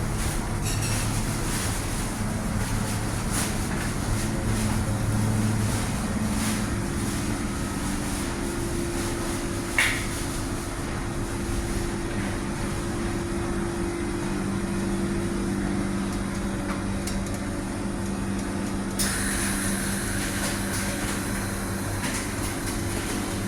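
Steady hum of ship's galley ventilation and machinery, with a few held low tones. A sharp click sounds about ten seconds in, and a hiss joins about nineteen seconds in.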